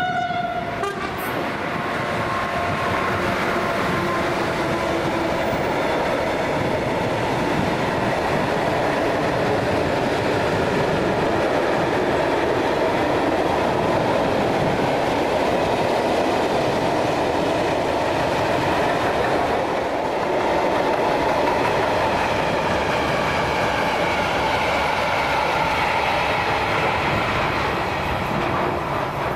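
Freight train of flat wagons hauled by an electric locomotive rolling past close by: a loud, steady rumble and rattle of wheels and wagons, with a few brief tones at the very start as the locomotive goes by.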